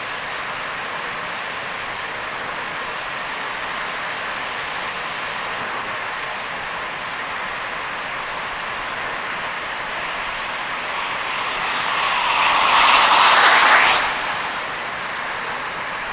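Steady hiss of heavy rain and tyres on a wet expressway, heard from a moving car. About twelve seconds in, a louder rush of water builds and then cuts off sharply a couple of seconds later.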